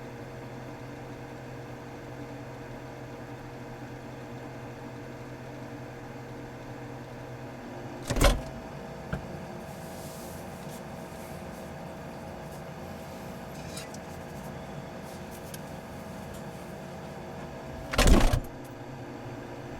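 Steady electrical hum, typical of a refrigerator running, broken by two loud thumps about ten seconds apart, with a small click just after the first. After the first thump the low part of the hum drops away and a higher steady tone carries on.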